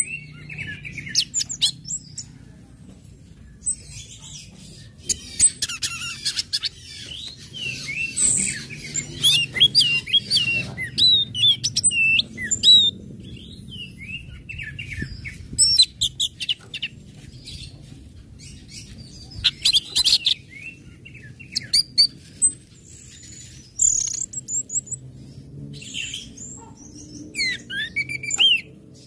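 Orange-headed thrush singing in bursts of rapid chirps, short slurred whistles and quick ticking notes, with brief pauses between phrases, over a faint steady low hum.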